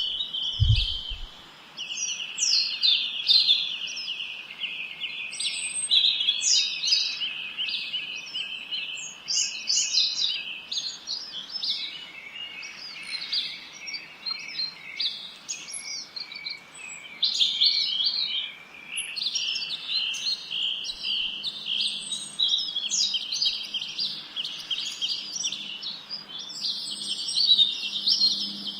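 A chorus of small songbirds chirping and singing over one another in a continuous, high twittering chatter with fast trills.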